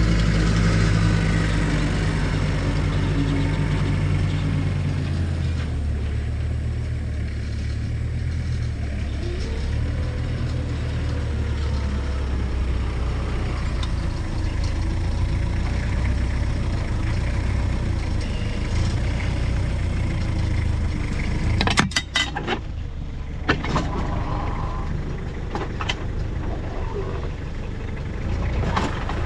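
A heavy farm-machinery engine running steadily at a fairly constant speed. About three quarters of the way in there are a few sharp knocks and clatters.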